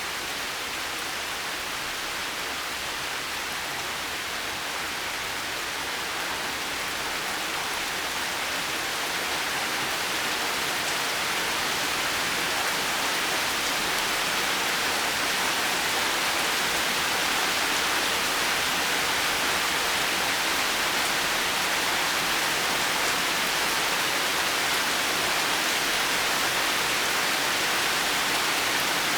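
Steady heavy rain, an even hiss of falling water with no distinct drops or thunder, growing a little louder over the first several seconds.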